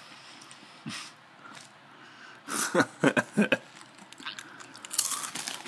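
A person biting into and chewing crunchy Scampi Fries, a dry cereal snack. There is a cluster of loud crunches about two and a half seconds in, and more crunching around five seconds.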